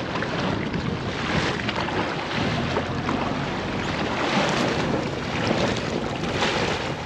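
Boat underway on a windy, choppy lake, with steady wind noise buffeting the microphone over the rush of water.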